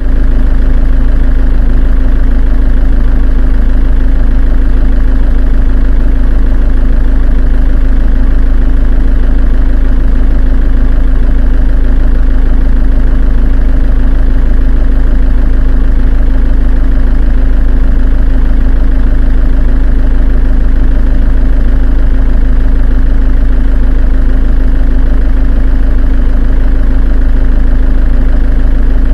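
Engine running steadily at idle, with a strong deep hum and a slight even pulse that does not change throughout.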